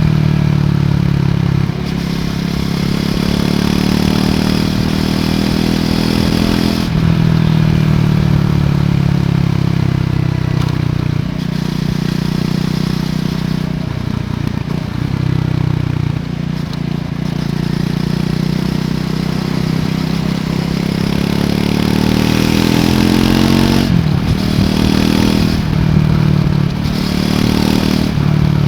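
Triumph Scrambler 400 X's single-cylinder engine through its stock exhaust, ridden and accelerating through the gears. Its pitch climbs and then drops back at each shift, several times over.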